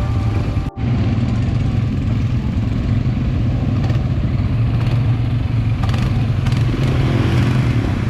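Quad bike engine running with a steady low drone, after a momentary break in the sound about a second in.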